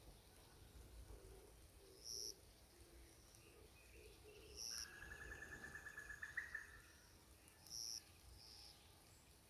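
Faint forest birdsong: a short high chirp repeats about every three seconds, and about five seconds in a rapid trill runs for roughly two seconds.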